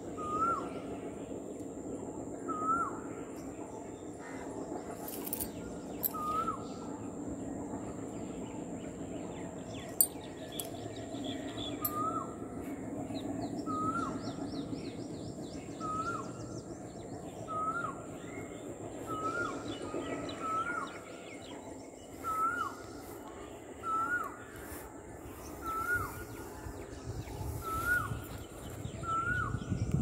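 A bird calling over and over, one short note that rises and then drops, about every second and a half. A single sharp click about a third of the way through.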